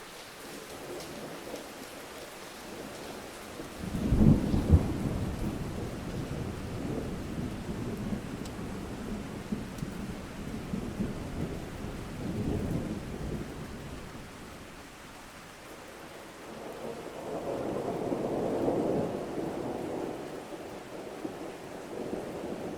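Steady rain falling through a thunderstorm: a sudden thunderclap about four seconds in that rumbles on for several seconds, then a second, slower roll of thunder building and fading near the end.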